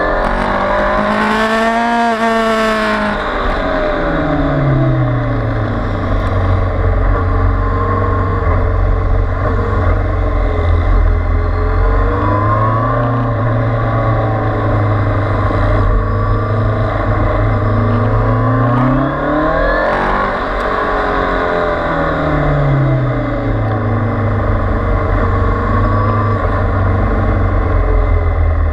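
Kawasaki Z800's inline-four engine heard from on board at track pace, the revs climbing under throttle and dropping off again into the corners several times over, with wind noise underneath.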